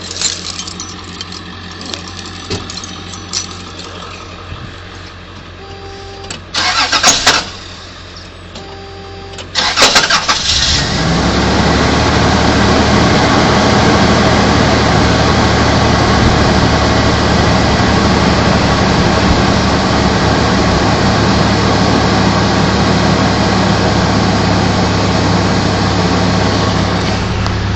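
Toyota T100 pickup engine cold-started after sitting over seven hours: a brief crank about seven seconds in, a second crank near ten seconds that catches, then the engine runs steadily and loudly. The owner says a weird noise comes with every start after the truck has sat that long.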